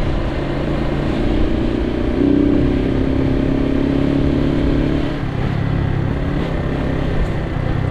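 Suzuki TU250X's air-cooled single-cylinder engine running while riding, with wind and road noise on the microphone. A higher steady tone comes in about a second in and drops away about five seconds in.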